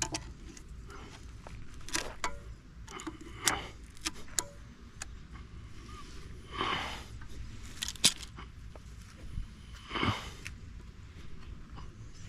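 Hand tools clinking and scraping on the stump grinder's metal as pliers tug at string wound into it: scattered sharp metallic clicks, with a few louder rustling swishes.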